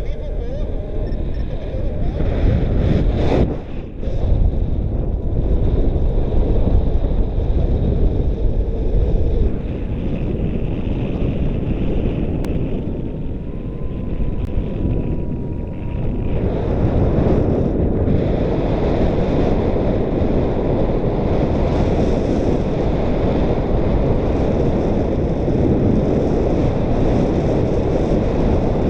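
Strong wind buffeting the microphone in flight: a loud, steady low rumble of rushing air, dipping briefly about four seconds in.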